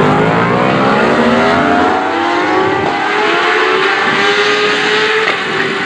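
Racing motorcycle engine accelerating hard at high revs, its pitch climbing over the first few seconds and then holding high and steady.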